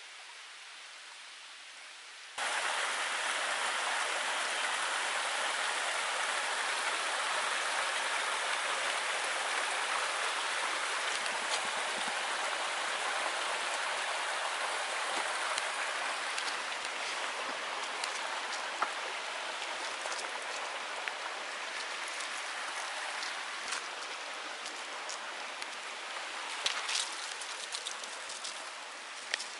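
Mountain stream water rushing steadily over rocks, starting abruptly about two seconds in after a quieter hiss. Scattered sharp clicks come through over it in the second half.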